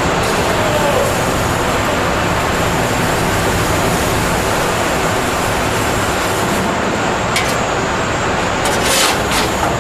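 Steady loud machinery noise at an aluminium melting furnace fitted with an electromagnetic induction stirrer, with a faint high whine and a few sharp clatters near the end.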